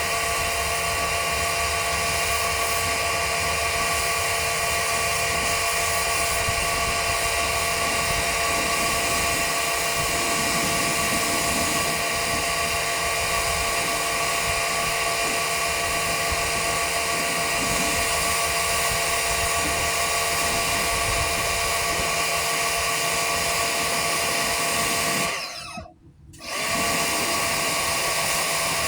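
Pressure washer running and spraying steadily, a loud hiss with a high motor whine; it cuts out for about a second near the end, then starts again.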